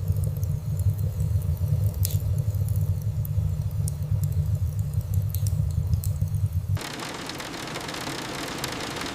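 A steady low rumble with scattered crackles, which cuts off suddenly about seven seconds in and gives way to a steady hiss of rain.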